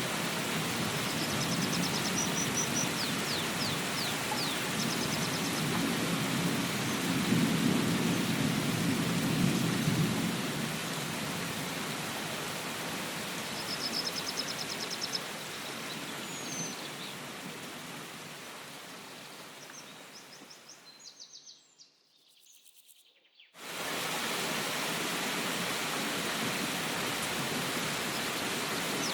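Steady rain with a low thunder rumble through the first ten seconds and a few short bird chirps. The rain fades out to near silence about twenty seconds in, then cuts back in suddenly a couple of seconds later.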